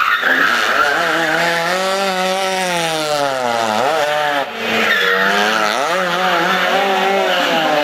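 Competition car engine under hard driving, its pitch sweeping up and down with the throttle and gear changes: it falls away about four seconds in, with a brief dip in loudness, then climbs again. A hiss of tyre noise sits over it at the start.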